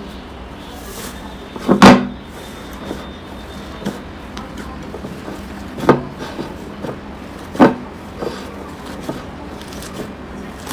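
Slime being squeezed and handled, with a few sharp wet smacks: the loudest about two seconds in and two more later, over a steady soft hiss.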